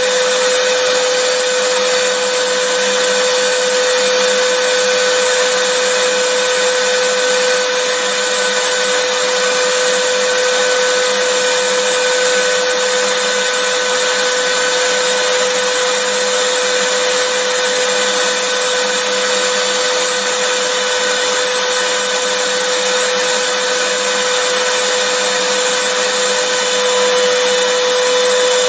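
Vacuum cleaner motor running steadily, an even whooshing hiss with a constant hum-like whine underneath.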